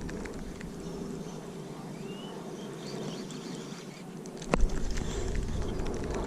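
Steady outdoor background noise with a bird chirping briefly about two seconds in, and a single sharp knock about four and a half seconds in, followed by a low rumble like wind on the microphone.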